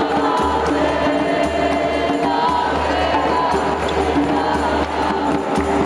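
Capoeira roda music: a group singing together over a pandeiro and other percussion.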